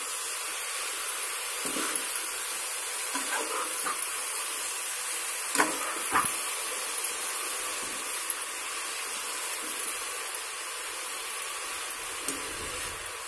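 Torn mushrooms frying in oil in a pressure-cooker pan with a steady sizzle, while a steel spoon stirs them, clicking and scraping against the pan now and then.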